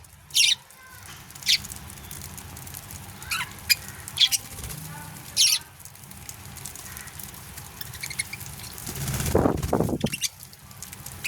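Budgerigars chirping: short, sharp high calls every second or so, with a louder, lower sound lasting about a second near the end.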